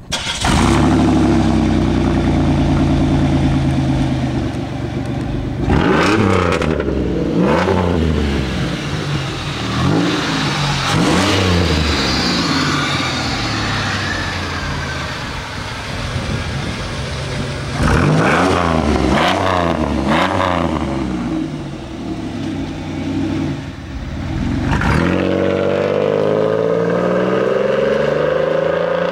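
1994 Pontiac Bonneville SE's 3.8-litre V6 (L27 3800), straight-piped with no muffler, running loud and steady, then revved up and let fall back several times.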